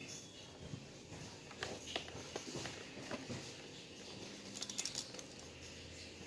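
Faint, scattered light clicks and taps of kitchen handling, clustered about two seconds in and again near five seconds.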